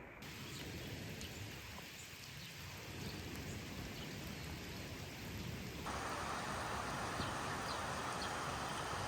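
Steady rain falling, an even hiss with scattered faint drop ticks. It jumps abruptly louder twice, just after the start and about six seconds in.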